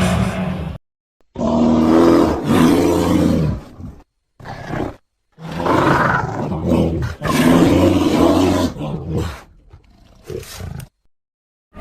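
Monster-style roar sound effects: several low, pitched roars of a few seconds each, with a short one between, separated by abrupt cuts to dead silence.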